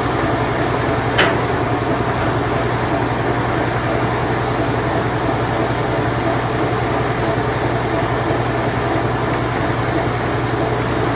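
Late-1980s Whirlpool Imperial Clean Touch washing machine running its spin cycle: a steady mechanical whirr over a constant low hum, with a single short click about a second in.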